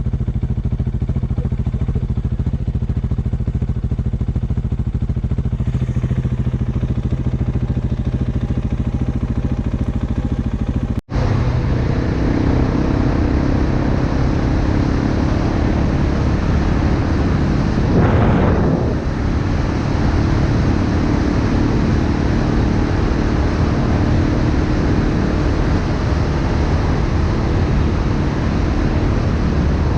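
Dirt bike engine running at a steady cruising speed, with wind on the microphone. The sound breaks off for an instant about eleven seconds in; after that the wind noise is heavier, with a brief swell a few seconds later.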